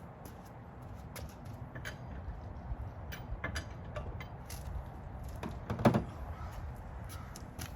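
Scattered metallic clicks and knocks of hand tools at work on a car wheel, with one louder knock about six seconds in.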